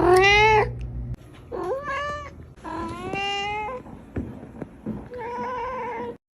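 Domestic cat meowing four times, each meow a drawn-out pitched call, the first rising in pitch. A low steady hum sits under the first meow, and the sound cuts off abruptly near the end.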